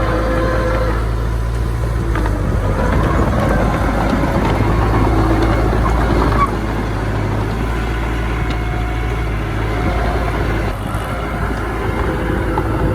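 Diesel engines of earthmoving machinery running under load, with a steady low drone and a wavering engine note. The sound drops abruptly about six and a half seconds in.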